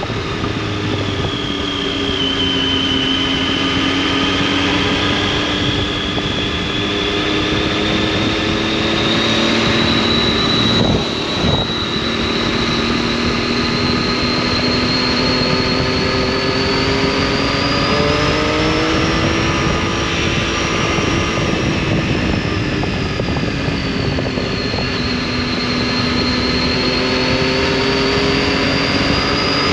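Triumph Tiger 800's three-cylinder engine and exhaust under way on a motorcycle ride, its pitch drifting slowly down and up with road speed. There is a brief break in the sound about eleven seconds in.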